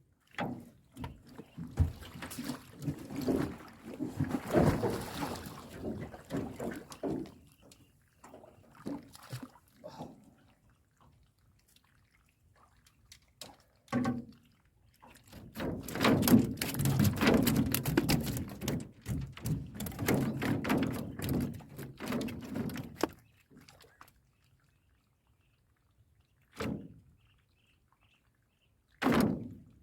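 Irregular knocks and thuds with splashing and pouring water as a fish trap is handled in and beside a boat, in two long stretches with a few single knocks near the end.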